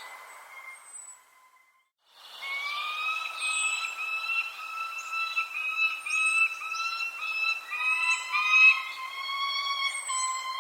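Birds calling: short, high, falling chirps repeat over a steady whistled tone with overtones that wavers in short phrases. The sound cuts out briefly about two seconds in, then comes back.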